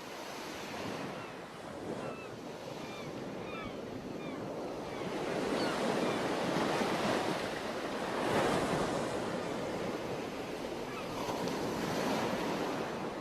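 Ocean surf: waves washing in, swelling and easing, with a few short high chirps about two to four seconds in.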